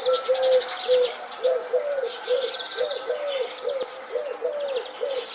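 Birds calling: a run of short, low, arching notes repeated two or three times a second, with quick high chirps and trills over them.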